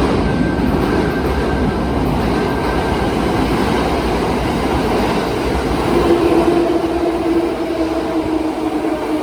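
Kintetsu electric train moving along the platform: a steady rumble of wheels and running gear, with a steady whine coming in about six seconds in.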